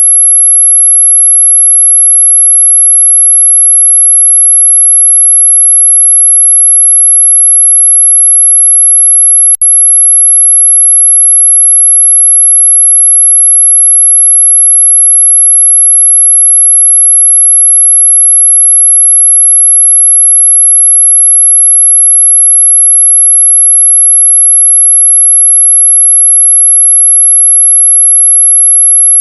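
Continuous high-pitched pure electronic tone at about 11 kHz, a so-called ultrasonic anti-mosquito sound, which is in fact audible. It holds one steady pitch and level, broken by a brief click and dropout about ten seconds in.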